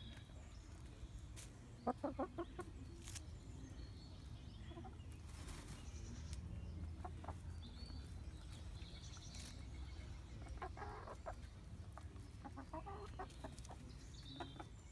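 Hybrid laying hens clucking softly as they feed, with a cluster of sharp taps about two seconds in and scattered clicks afterwards, over a low steady rumble.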